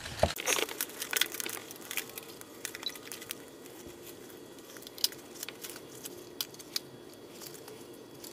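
Irregular small clicks and rattles of fuel pump assembly parts being handled. They come thickly for the first three seconds or so, then more sparsely.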